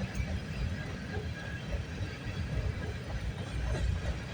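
Freight train cars rolling past at speed, their steel wheels on the rails making a steady low rumble.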